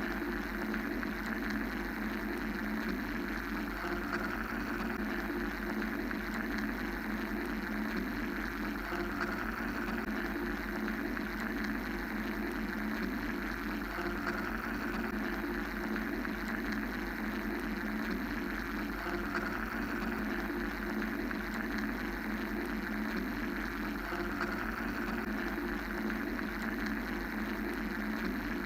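Steady mechanical white-noise drone with a low rumble, a hum and a higher hiss layered together, unchanging throughout.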